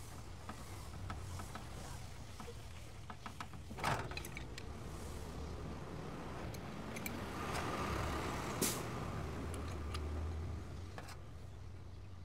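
Scattered clicks and knocks over a low steady hum, with a louder knock about four seconds in and another sharp knock near nine seconds.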